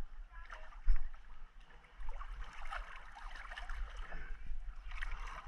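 Water sloshing and gurgling close to the microphone, with scattered small splashy crackles and a short knock about a second in.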